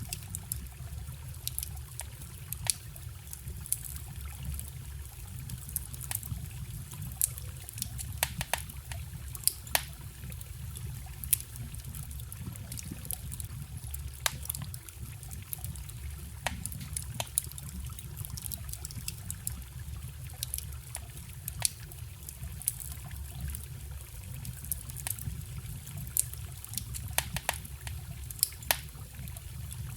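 Wood fire crackling, with sharp, irregular pops scattered throughout, over the steady low rush of a forest stream.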